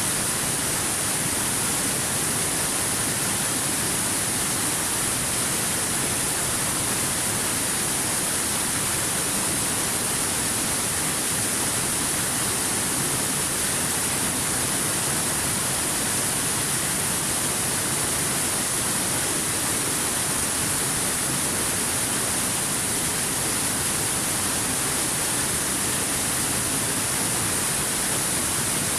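Waterfall: water falling and crashing continuously, a steady, unchanging hiss that is strongest in the high treble.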